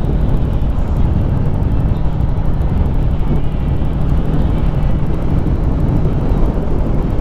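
Harley-Davidson Street Rod 750's V-twin engine running steadily while the motorcycle cruises, with a low, even rumble and wind noise on the microphone.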